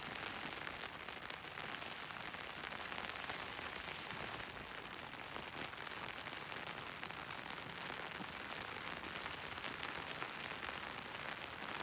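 Steady rain falling, an even patter of drops hitting the ground and vegetation.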